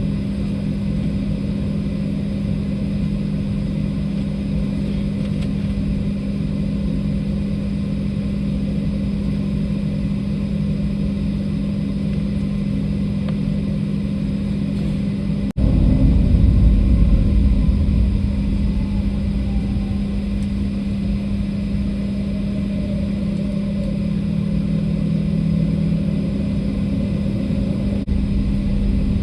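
Airliner cabin noise heard from inside the plane: a steady drone with a constant hum. About halfway through it breaks off abruptly and comes back louder and deeper.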